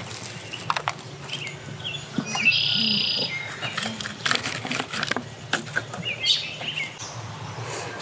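Birds chirping in short calls, with a buzzy call about three seconds in and more chirps around six seconds, over clicks and rustles of hands handling a small plastic plant pot and wood-chip mulch.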